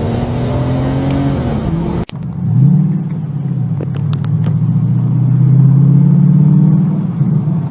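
Car engine running at high revs. About two seconds in it cuts abruptly to another car, whose engine revs up and holds high, steady revs.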